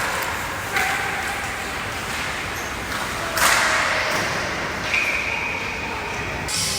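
Hockey game sounds in a rink. Two sudden sharp noises come, one about a second in and a louder one a few seconds in, then a steady high single tone holds for about a second and a half near the end.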